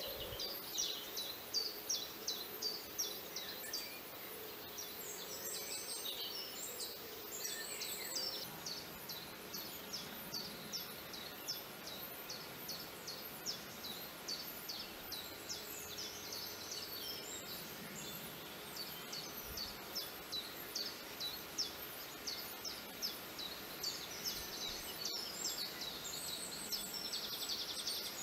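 Birds chirping: a steady run of short, high chirps repeating a few times a second, with other song phrases mixed in and a fast trill near the end.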